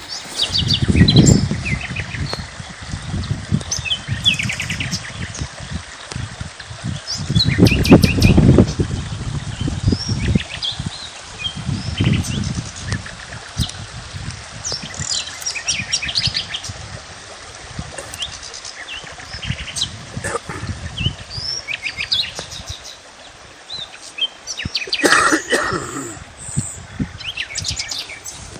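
Small birds chirping and calling in quick short phrases, several at once. Bursts of low rumble come and go, loudest about a second in and again around eight seconds.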